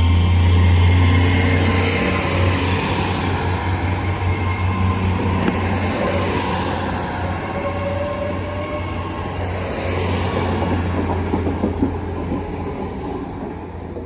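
Diesel train running through the station with a strong, steady low engine hum and some wheel-on-rail noise, slowly fading toward the end.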